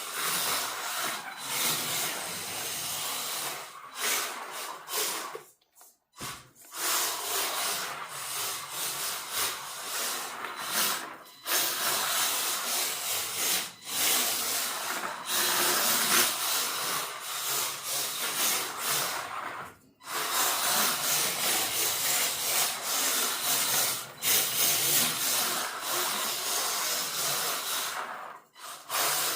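WLtoys K969 RC drift car being driven, its drift tyres sliding and scrubbing with the motor and gears running, a steady hiss that drops out briefly several times.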